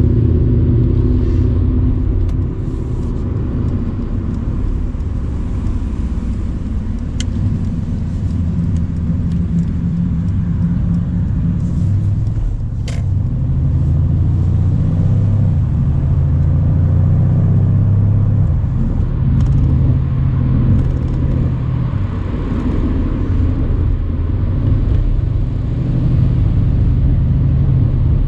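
Mercedes-AMG C63's twin-turbo V8 pulling steadily at cruising speed, a deep, even engine note with tyre and road noise. It eases off briefly about two seconds in, then holds steady.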